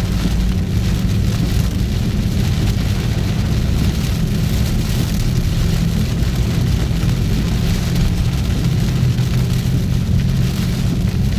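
Car driving on a highway in heavy rain: a steady low road rumble under the hiss of rain and wet spray.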